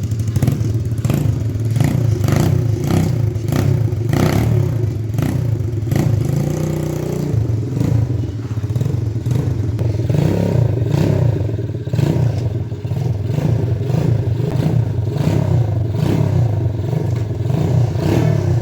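125cc dirt bike engine running, its revs rising and falling repeatedly, with clattering knocks over the steady low engine note.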